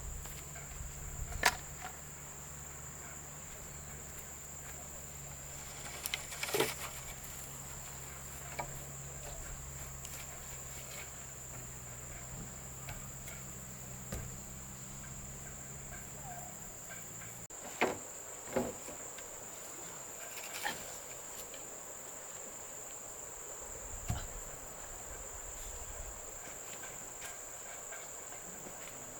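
Insects, crickets or similar, singing in a steady high-pitched chorus, with a handful of scattered knocks and clicks. A low hum underneath stops a little past halfway.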